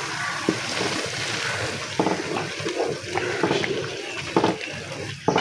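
Thin tomato paste sizzling as it is poured into hot ghee and fried ground onion in a pot, with a wooden spoon stirring and scraping through it and a few short knocks of the spoon against the pot.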